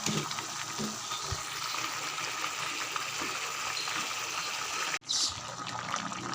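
Chicken curry frying in a pan, a steady sizzling hiss that breaks off for an instant about five seconds in.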